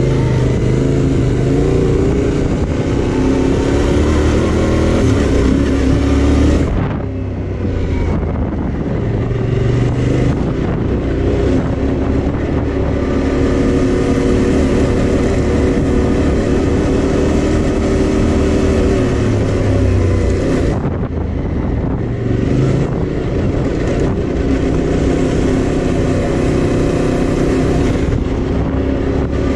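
Yamaha Tenere 700 parallel-twin engine running while the motorcycle is ridden, its note easing off briefly twice, about a quarter of the way in and again about two-thirds through, then picking back up.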